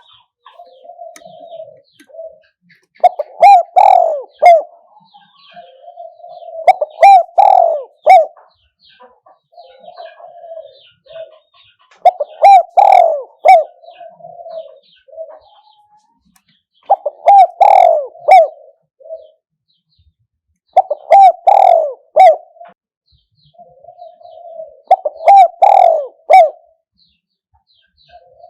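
Spotted dove cooing: six loud, repeated phrases of several coos each, about every four to five seconds, with softer cooing between them.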